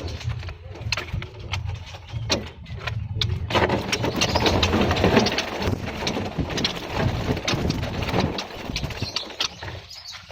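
Small caged birds, likely the flock of scaly-breasted munias, fluttering and chirping in many quick clicks and chirps that get busier about a third of the way in, over a steady low hum.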